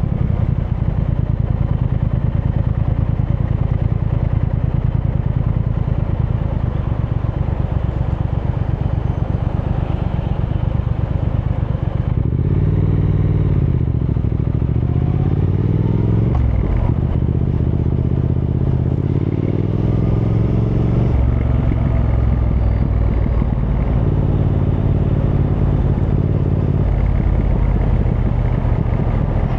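Triumph Thruxton R's 1200 cc parallel-twin engine running on the move. About halfway through it pulls up in pitch twice, with a short dip at a gear change in between, then settles to a steady pace.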